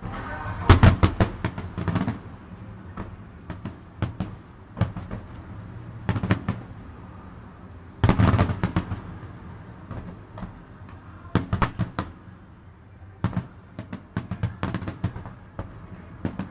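Fireworks going off: clusters of sharp bangs and crackling reports, loudest about a second in and again at about eight seconds, with quieter scattered pops between.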